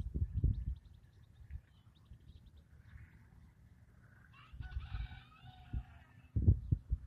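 A rooster crowing once, a call of about a second and a half past the middle, with faint small-bird chirps earlier. Low rumbling bursts on the microphone at the start and near the end are louder than the crow.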